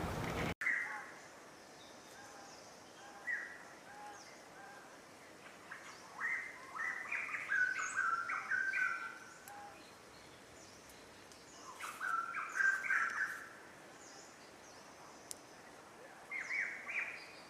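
Birds calling: three bouts of quick chirping and squawky notes, with scattered fainter, higher chirps between them over a quiet background.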